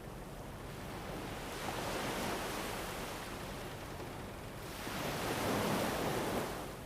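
Soft rushing noise of an ambient sleep soundscape, swelling up twice and falling away.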